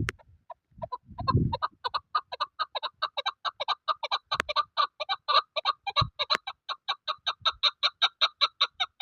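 Chukar partridge (chakor) calling: a long series of short clucking notes that starts slowly about a second in, quickens to about five or six a second, and stops abruptly. Low rumbling gusts of wind on the microphone in the first second or so.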